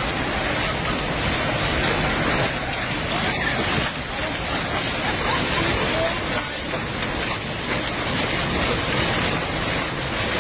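Hail coming down hard in a dense, steady clatter of many stones striking a surface. Faint voices can be heard now and then underneath.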